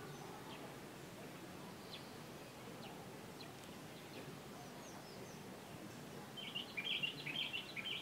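Steady faint background hiss with scattered short bird chirps, then a burst of rapid, high bird chattering from about six and a half seconds in, the loudest part.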